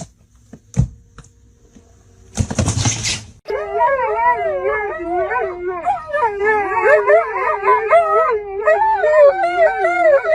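A dog howling in one long, continuous howl whose pitch wavers up and down, starting about three and a half seconds in.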